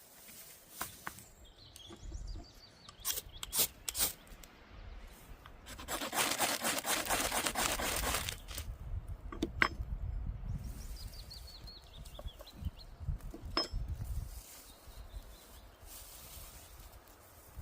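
Hands-on work sounds: scattered sharp clicks and knocks, and from about six seconds in a couple of seconds of dense rasping, scraping or sawing. Birds chirp in the background, twice in short falling runs.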